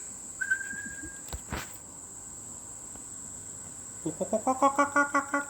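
A bird gives a fast run of pitched, repeated calls, about seven a second and rising in pitch at first, starting about four seconds in, over a steady high insect drone. A short whistle and a single click come earlier.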